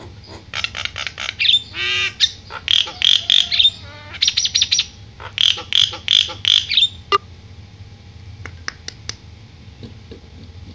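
Javan myna (jalak kebo) calling: loud runs of rapid, harsh repeated notes in several bursts, then only a few scattered clicks for the last few seconds. The owner calls the bird fussy because it has not yet been bathed.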